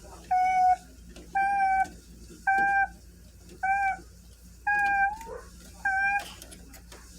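Reversing alarm beeping, six steady mid-pitched beeps about once a second.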